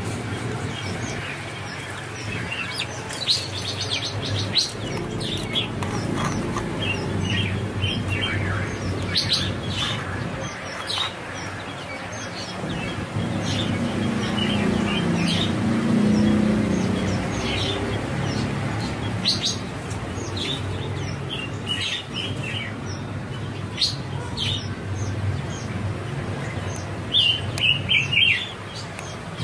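Small birds chirping and tweeting, in short, high calls scattered through the whole stretch, over a low background rumble that swells about halfway through.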